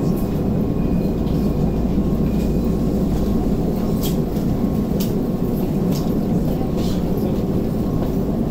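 Keisei 3500 series commuter train heard from inside the passenger car as it runs slowly into a station platform: a steady low running rumble, with a few sharp clicks about a second apart near the middle.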